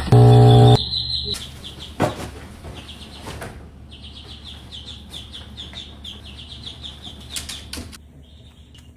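Ducklings peeping in quick runs of repeated high chirps. A short, loud, steady low buzzing tone sounds right at the start, and a few sharp clicks come in between.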